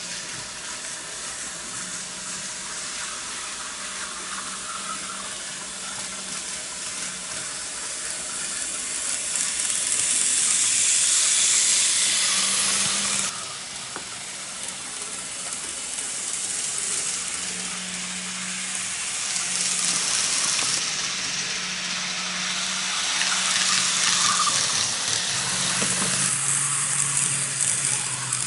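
N-gauge model train running on the layout track: a steady hissing rattle of small wheels on rails over a faint motor hum. It swells as the train comes close, drops sharply about halfway through, then builds again.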